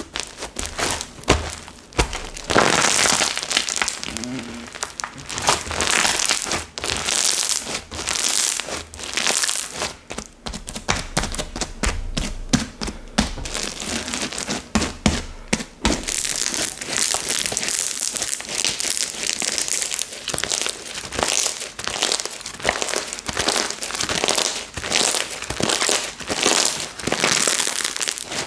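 Slime being squished, pressed and stretched by hand, a dense run of crackling clicks and squelches.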